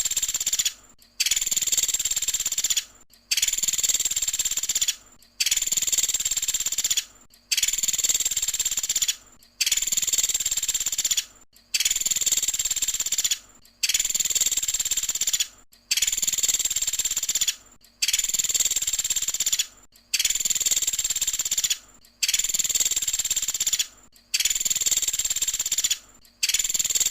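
Looped recording of a pelatuk sampit bird's rapid, high-pitched 'tembakan' burst call. Each burst lasts about a second and a half and repeats every two seconds.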